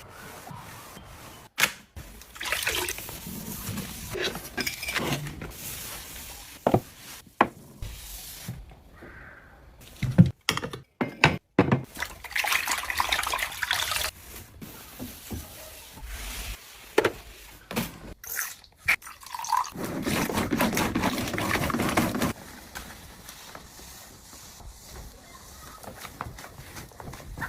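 Household cleaning sounds: water splashing and dripping in short stretches, with scattered clicks and knocks of objects being handled and set down.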